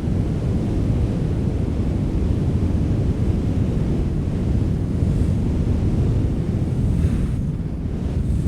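Strong wind blowing as a steady, deep rumble, with brief gusts of higher hiss about five and seven seconds in.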